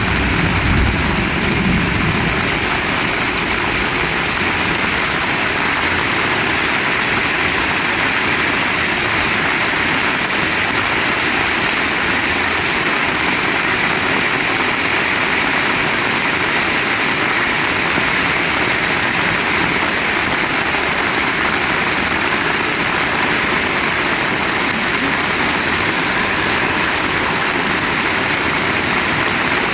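Heavy rain pouring steadily in an even hiss. A low rumble dies away in the first couple of seconds.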